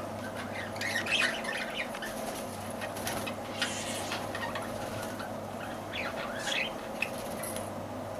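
Lovebirds chirping and squawking in short bunches, about a second in, around three to four seconds in and again around six seconds, over a steady low hum.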